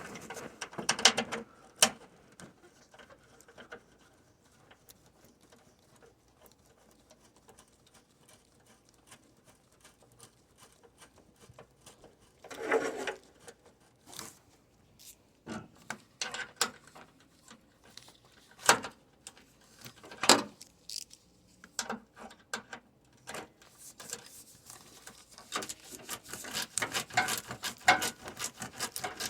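Hand tools and radiator mounting parts being handled while the car's radiator brackets are refitted: scattered clicks and knocks, a short scraping burst about 13 seconds in, and a run of quick clicking over the last few seconds.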